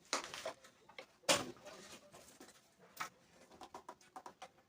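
Clicks, knocks and light scraping as the plastic top tank of a car radiator is worked loose from its bent-open crimped header, with the loudest knock about a second in and a run of small quick clicks near the end.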